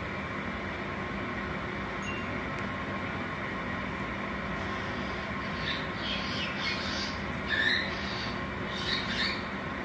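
Cockatiel giving short, harsh squawks and chirps in small clusters from about halfway in, over a steady background hum.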